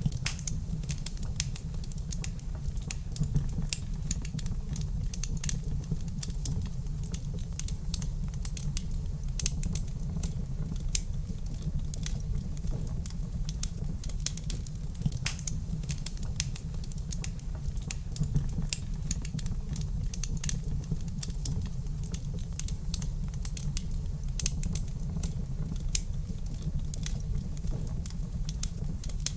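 Wood fire crackling in a fireplace: irregular small pops and snaps, several a second, over a steady low rumble.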